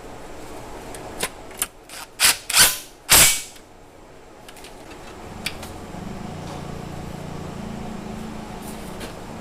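Workshop tool sounds: a few sharp clicks, then three short, loud bursts of noise about halfway through the first half, followed a couple of seconds later by a steady low machine hum.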